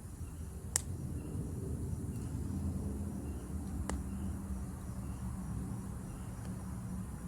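Campfire crackling, with two sharp pops about one and four seconds in, over faint insect chirping and a steady low rumble; a low hum joins about two and a half seconds in.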